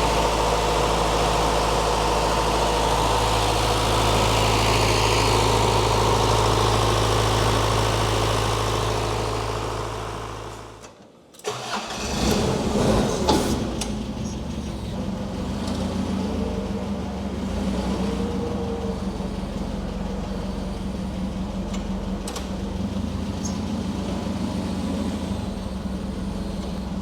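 Case 1840 skid steer's engine running at a steady speed for about ten seconds. The sound then drops away almost to nothing, comes back about a second later and carries on at a rougher idle.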